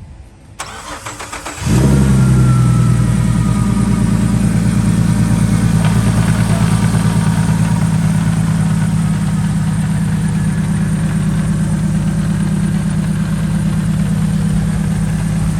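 Turbocharged car engine cranked by the starter for about a second, then catching and firing up about two seconds in and settling into a loud idle with a fast, even pulse.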